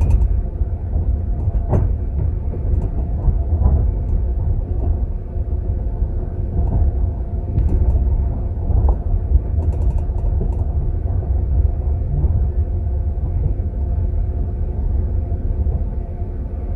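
Steady low rumble and clatter of a moving passenger sleeper train, heard from inside a compartment, with a few faint sharp clicks about two, eight and ten seconds in.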